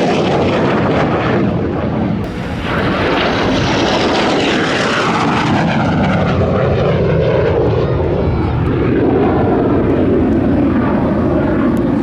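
A MiG-17 jet fighter's afterburning turbojet roaring loudly as it flies past. Its pitch falls from about three seconds in as it passes and draws away.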